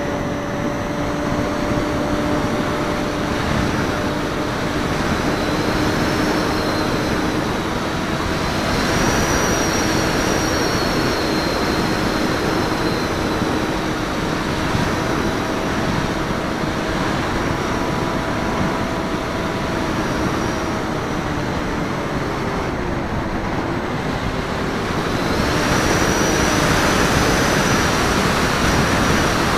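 Wind rushing over the wingtip camera's microphone on a HobbyKing Raptor FPV in flight, with the whine of its electric motor and propeller drifting in pitch as the throttle changes. The rushing gets louder twice, about a third of the way in and again near the end.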